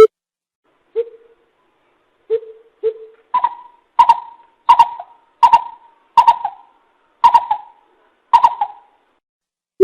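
Coucal (bìm bịp) calling: three separate low hoots, then a run of seven higher hoots spaced well under a second apart, each trailing off with an echo.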